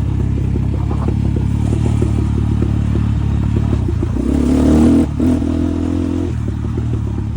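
Enduro motorcycle engine running while riding, its revs rising about four seconds in, breaking off briefly just after five seconds and dropping back after about six seconds.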